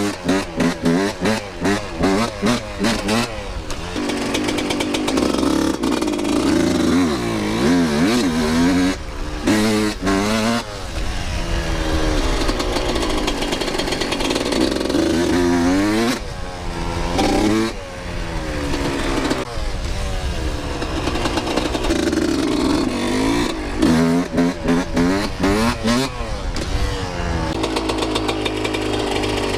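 Two-stroke dirt bike engine revving hard and backing off over and over as the rider pops wheelies, its pitch climbing and falling with each pull, with short choppy throttle blips in the first few seconds.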